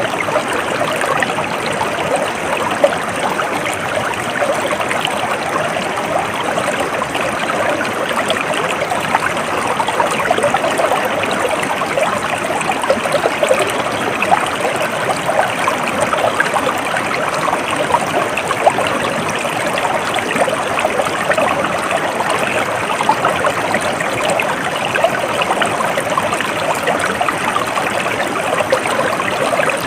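Stream water flowing steadily, an even rushing with fine flickering detail that does not change.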